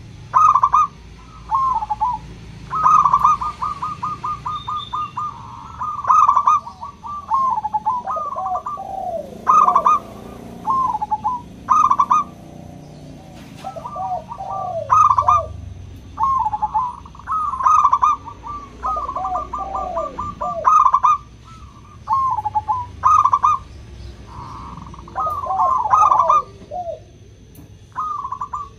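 Zebra doves (local perkutut) singing: phrase after phrase of quick, staccato cooing notes every second or two, with a higher and a lower voice often overlapping.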